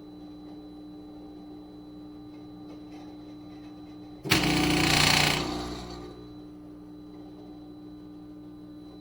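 Philips Series 3300 fully automatic espresso machine running with a steady mechanical hum. About four seconds in a loud burst of noise starts suddenly, lasts about a second and fades away.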